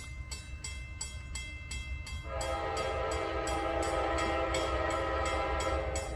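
A railroad grade-crossing bell rings rapidly, about five strokes a second, over the low rumble of an approaching diesel freight train. About two seconds in, the locomotive's air horn sounds one long, loud chord-like blast that lasts nearly four seconds.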